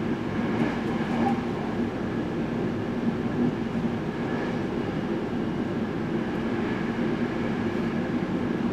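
Sanyo Electric Railway electric train running at speed, heard from inside the carriage: a steady rolling rumble of the train on the track.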